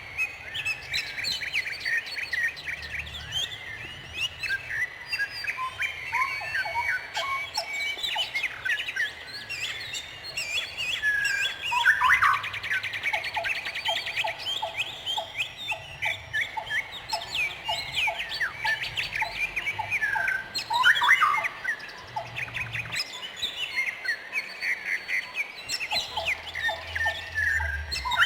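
Several songbirds chirping and trilling continuously, many short rapid notes overlapping, with runs of evenly repeated lower notes and a fast buzzy trill about halfway through.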